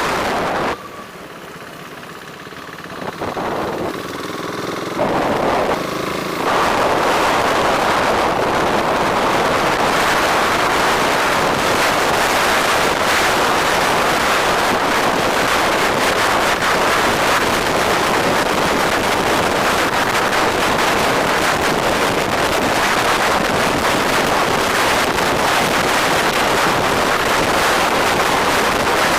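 Wind rushing over the microphone on a moving bike ride. It is quieter for the first few seconds, where a steady hum of traffic or an engine shows through, and after about six seconds becomes a loud, steady rush that covers everything else.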